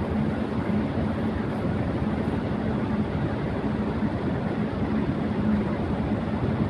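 Electric fan running at high speed: a steady rush of air with a faint low hum held at one pitch.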